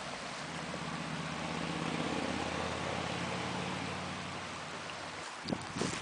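A motor vehicle passing: a steady engine hum over tyre noise that swells and then slowly fades. A few sharp clicks come near the end.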